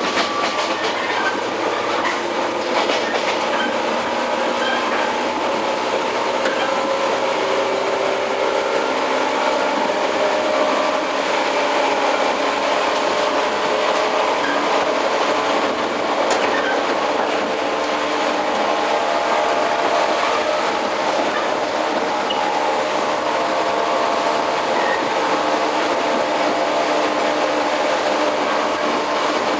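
Interior running sound of a JR 115-series electric motor car (MoHa 114) under way. Its traction motors and gears give a whine of several steady tones over the rumble of the wheels, with occasional knocks from the wheels.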